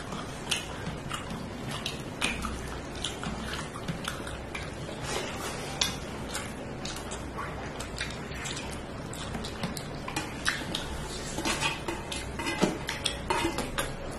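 Close-up eating sounds of a rice and fish curry meal: many small clicks and scrapes against a plate, busier near the end.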